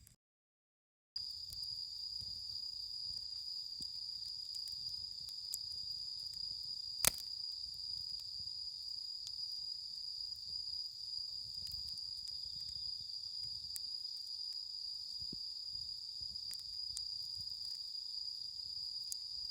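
Insects singing in a steady high-pitched drone, with scattered faint crackles from the campfire and one sharper crack about seven seconds in. The sound starts after about a second of silence.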